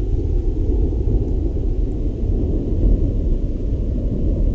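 A steady low rumble with nothing sudden in it.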